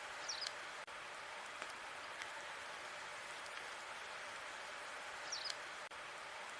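Wood fire burning in a fireplace: a steady hiss with scattered small crackles and two short, high, sharp pops about five seconds apart.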